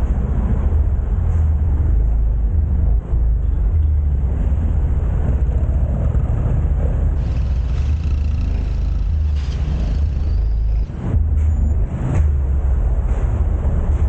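A small 150 cc-class motorcycle engine running at riding speed, with a steady low rumble mixed with wind rushing over the microphone, and brief dips in level about three and eleven seconds in.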